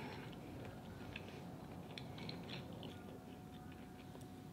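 Faint chewing of seafood-boil food, with small soft clicks scattered throughout.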